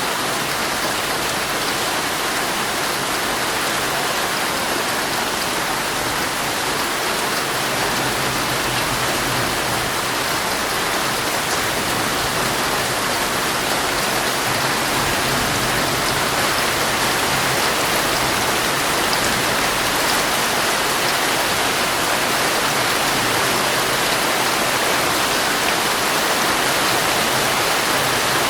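Heavy rain falling steadily on a tent, heard from inside it: a constant, even hiss of drops with no thunder.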